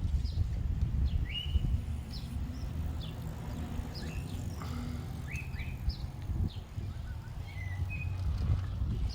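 Birds chirping outdoors: short, high, thin chirps come every half second or so, over a steady low rumble.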